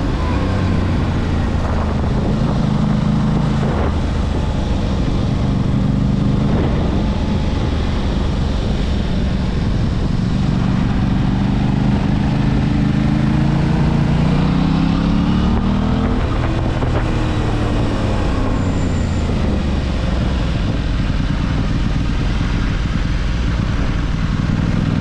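Aprilia RS 660's parallel-twin engine running on the road, its pitch rising and falling as the rider accelerates and eases off, with one long rise in the middle that drops away about two-thirds of the way through.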